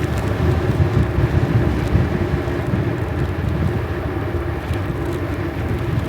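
Strong wind buffeting the microphone: a loud, gusty rumble.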